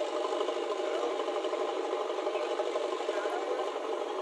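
Steady machine hum with an even pitch, typical of a cartoon excavator or tractor engine sound effect.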